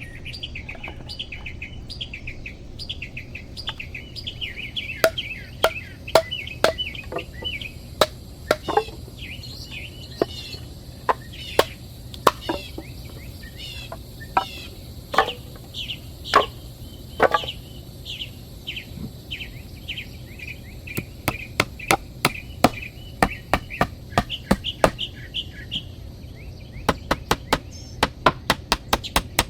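Small birds chirping steadily, while a hand tool strikes again and again in sharp knocks, like chopping or hammering, in uneven bursts that come several a second near the end.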